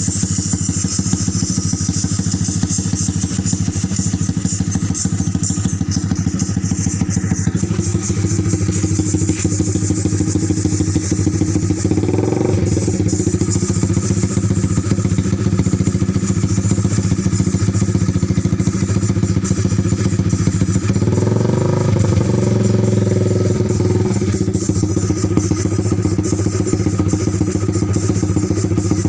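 Honda Sonic single-cylinder four-stroke motorcycle engine running through a racing exhaust, idling with a loud, steady exhaust note. It is revved briefly about twelve seconds in and again for a few seconds around twenty-one seconds in.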